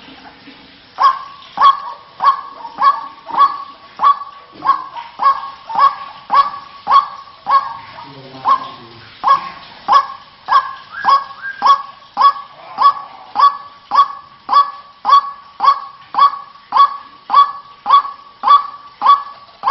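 White-breasted waterhen (ruak-ruak, kareo) calling a long, steady series of harsh, loud notes, a little under two a second, starting about a second in; a lure call used to attract waterhens.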